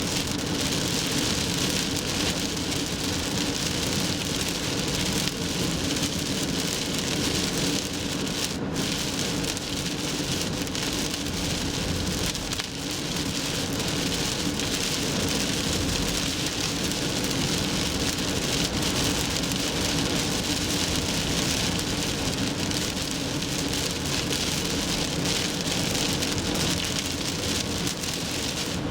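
Rain and wet road noise from a car driving on an expressway in a typhoon: a steady hiss of rain and tyre spray over a low, even hum of the engine and road.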